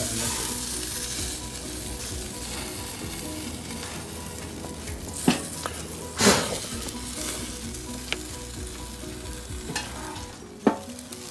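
Oil-basted chicken leg quarters sizzling and crackling on a grill grate over gas flames, a steady hiss broken by a few sharp pops about five, six and ten and a half seconds in, the one near six seconds the loudest.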